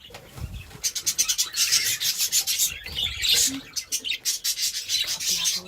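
A hand rummaging through a dish of dry seed mix, making quick scratchy rubbing strokes, with budgerigars chirping.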